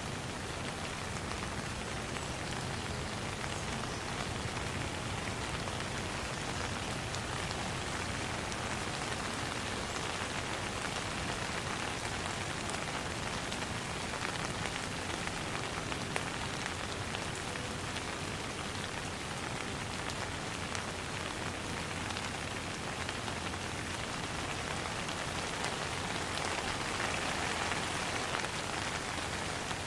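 Steady rain falling on water and surrounding surfaces, a dense even patter of many drops, swelling slightly near the end.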